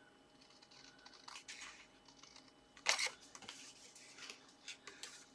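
Cardstock being handled and slid on a craft table, with soft rustling, a sharp click about three seconds in, and a few lighter taps after it.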